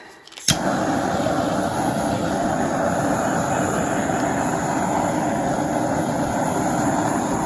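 Handheld hot-air blower switched on about half a second in and running steadily, blowing over freshly poured acrylic paint to pop air bubbles.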